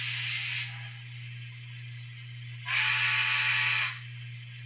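Econami sound decoder in an N scale Bachmann 2-8-0 Consolidation playing its steam hiss: the hiss cuts off about half a second in, and a second burst of hiss sounds for about a second near the middle. A steady low hum runs underneath.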